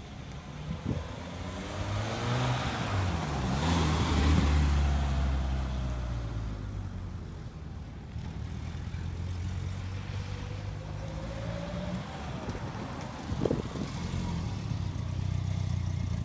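1989 Peugeot 205 GTI 1.9's four-cylinder petrol engine revving and changing pitch as the car accelerates and drives around. It is loudest as the car passes close about four seconds in, settles to a steadier, lower note in the middle, and briefly revs up again near the end as the car comes close.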